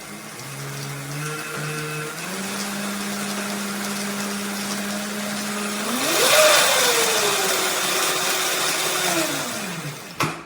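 300 W electric motor of an EVERCROSS EV12M Pro kids' electric motorcycle whining steadily, then rising in pitch about six seconds in as it speeds up, settling at a higher speed, and winding down near the end. A single sharp click follows just after it stops.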